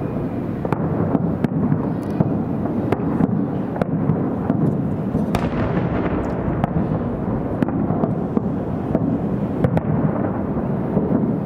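Aerial firework shells bursting in quick succession: a continuous rumble of booms with many sharp cracks over it.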